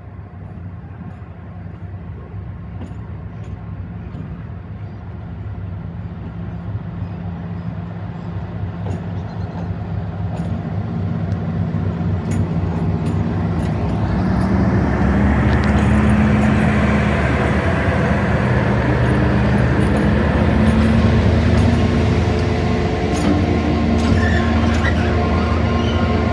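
A train approaching, its low engine hum and wheel noise growing steadily louder and at their loudest from about halfway through, as it draws close.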